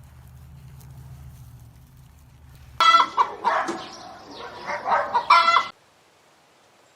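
A rooster crowing once, a loud call of about three seconds starting about three seconds in and cutting off abruptly. Before it there is a faint low hum.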